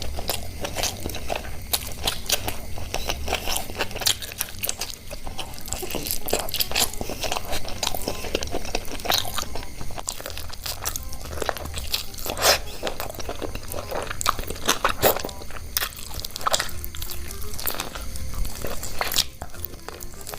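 Close-miked eating: crunchy bites and chewing, with many irregular crackles and clicks.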